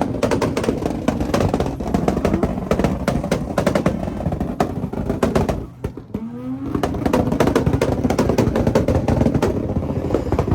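A car engine revving hard with a rapid stream of sharp crackling pops, dropping briefly about six seconds in and then revving back up.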